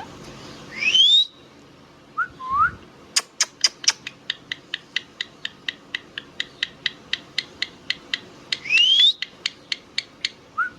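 Indian ringneck parrot giving two loud rising whistles and a few short chirps, between which comes a long run of sharp, even clicks, about four or five a second.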